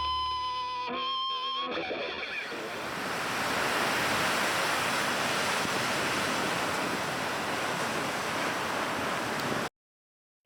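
A guitar music track dies away in the first two seconds. Then a steady rush of ocean surf runs on, cutting off abruptly near the end.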